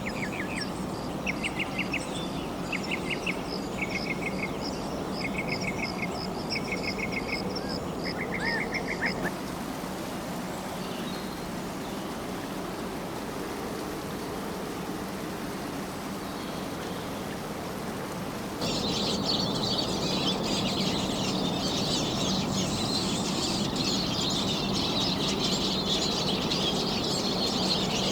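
Rainforest ambience: a bird repeats a short trilled call about once a second for the first third, then only a steady background hiss, and about two-thirds of the way through a dense chorus of high chirping calls starts abruptly.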